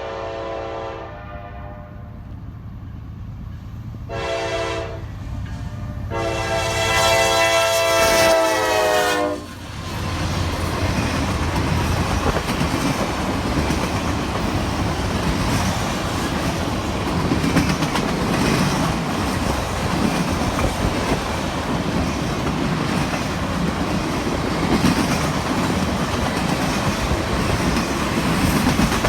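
Freight locomotive's multi-chime air horn: a held chord that ends about a second in, then a short blast and a long blast. About ten seconds in the train reaches the microphone, and the rumble and clatter of the rolling freight cars on the rails carry on steadily.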